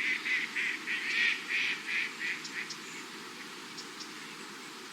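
Ducks calling: a quick series of short calls, about three a second, that stops about two and a half seconds in, leaving a steady background hiss.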